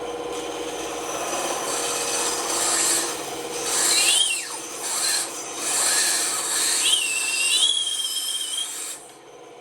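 Bandsaw cutting wood: a rasping hiss with a squeal that rises and falls about four seconds in and another held squeal near the end. The cutting noise stops suddenly about nine seconds in.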